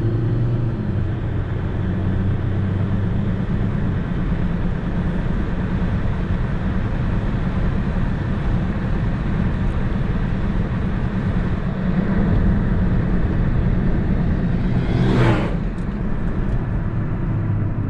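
Heavy vehicle engine running steadily close by, with a constant low drone over road and traffic noise. A brief sharp noise cuts through about fifteen seconds in.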